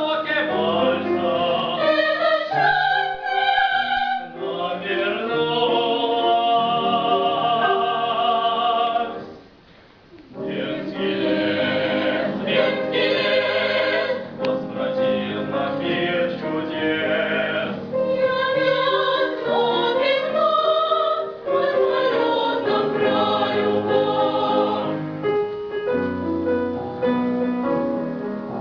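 Vocal ensemble singing in an operatic, classical style with wide vibrato and accompaniment, breaking off briefly about ten seconds in before resuming.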